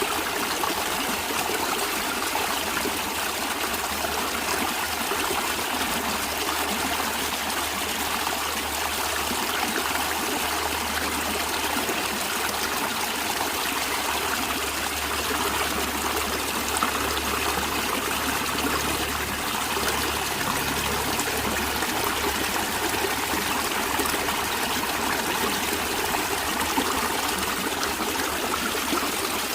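Natural stream water running and trickling steadily, with a low steady rumble underneath.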